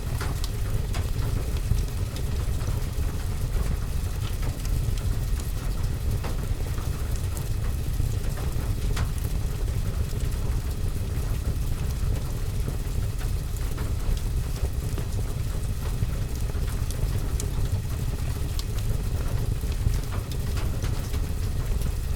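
Wood fire crackling in a fireplace, with scattered sharp pops and crackles, over steady rain on a window and roof that makes a constant low rumble.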